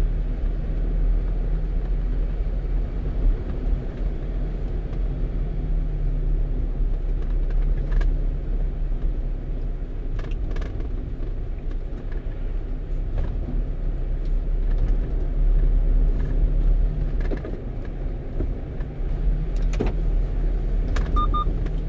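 Steady low engine and road rumble heard from inside a one-ton truck's cab while driving, with a few faint ticks and a short double beep near the end.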